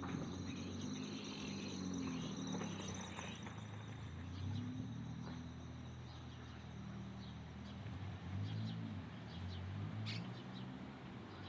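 Birds giving scattered short, high chirps over a low, steady hum.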